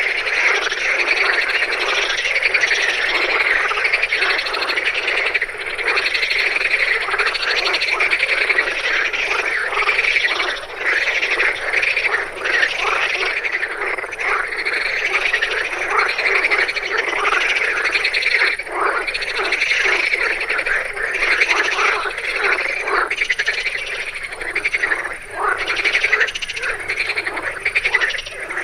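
A chorus of many frogs calling at once, a dense, continuous mass of overlapping croaks with no break.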